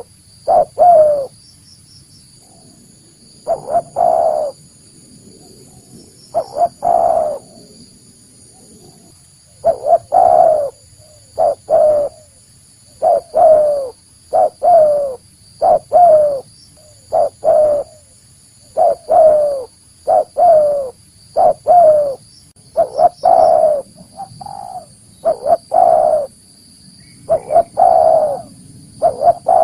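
Spotted dove cooing: repeated phrases of short coo notes, each bending down in pitch, in groups of two to four with pauses of a second or more between phrases. The recording is used as a lure call to draw wild doves in. A faint steady high-pitched whine runs underneath.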